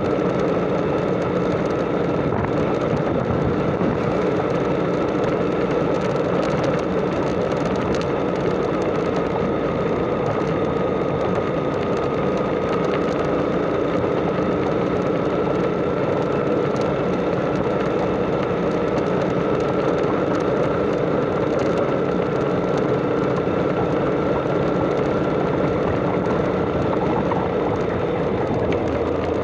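Motorcycle engine running at a steady cruising speed with road and wind noise, its pitch holding nearly constant throughout.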